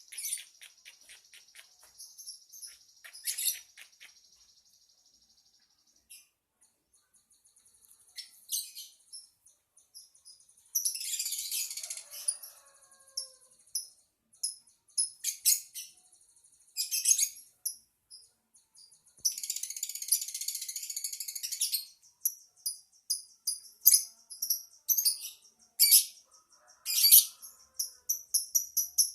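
Lovebird singing: runs of rapid high-pitched chirps and trills, with harsh buzzy stretches about eleven seconds in and again around twenty seconds, and a short quiet pause between phrases early on.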